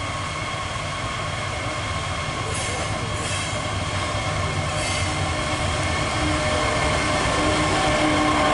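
Freight train approaching, a steady low rumble with several steady high-pitched tones over it, growing gradually louder.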